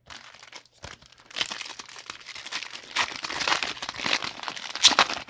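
Foil booster pack wrapper being crinkled and torn open by hand: a dense crackling that grows busier after the first second or so, with its sharpest crackle near the end.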